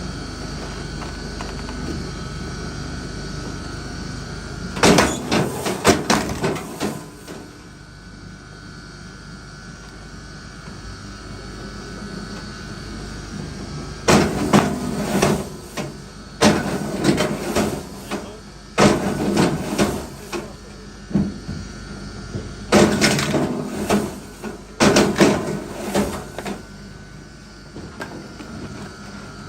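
Wood knocking and clattering as firewood pieces are handled, in several separate bursts of quick knocks, each lasting a second or two.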